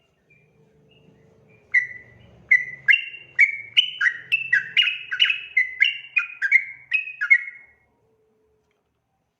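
Yellow-vented bulbul (trucukan) singing a run of short, loud, bubbly notes, about two a second, starting near two seconds in and stopping near eight.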